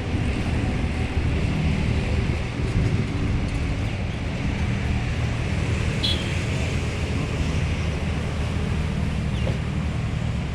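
Tata Punch car running on the move: a steady low engine hum with road and wind noise, and a brief high chirp about six seconds in.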